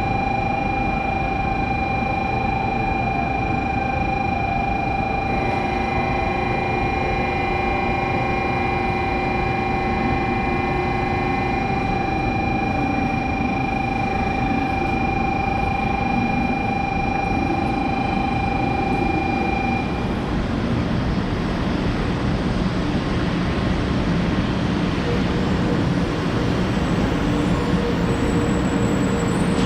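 Shinkansen train at a station platform: a steady high electrical whine over a continuous rumble. The whine stops about two-thirds of the way through, and the rumble carries on, growing slightly louder near the end.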